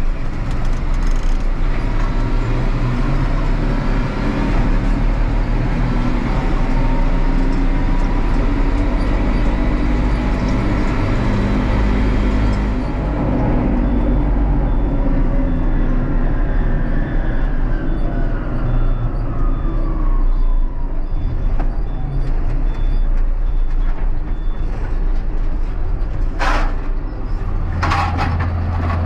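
Tractor engine running steadily under way. Its tone changes about halfway through, with a slowly falling note after it, and there are two sharp clicks near the end.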